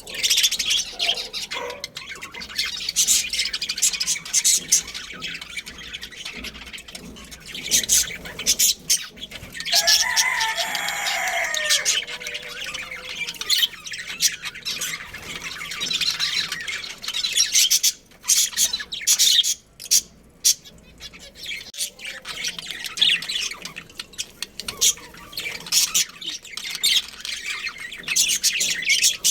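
A colony of budgerigars chirping and chattering continuously, with many overlapping high-pitched chirps. About ten seconds in, a lower call stands out and falls in pitch.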